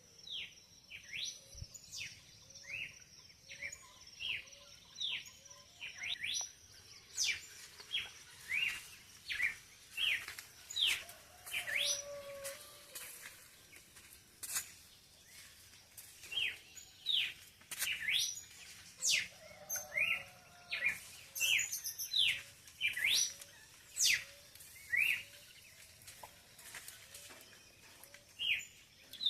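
Songbirds at dawn chirping: many short, quick upward-sweeping chirps, one or two a second, with a faint run of evenly spaced lower calls underneath at times.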